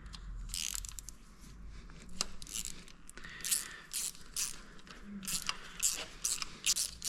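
Hand ratchet clicking as it turns a T40 Torx bit, backing out the injector hold-down bolts on a 6.0L Powerstroke diesel head. The clicks come in short runs, closer together and steadier in the second half.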